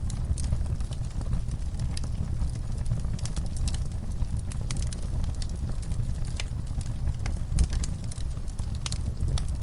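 Wood fire burning in a fireplace: a steady low rumble of flames with frequent irregular crackles and pops, one sharper pop near the end.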